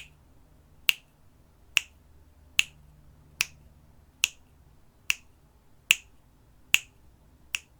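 Sharp ticking clicks at a steady pace, about one every 0.85 seconds, ten in all, keeping time for a twelve-count breath hold.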